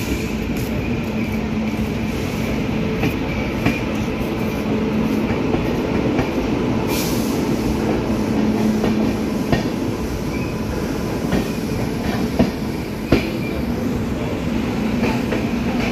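Passenger train coach rolling slowly along a station platform, heard from its open door: a steady rumble of wheels on rails, broken by a few sharp clicks over rail joints.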